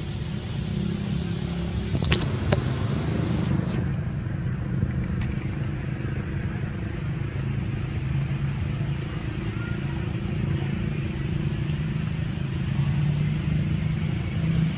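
Steady low outdoor rumble, with two sharp clicks about two seconds in followed by a brief hiss.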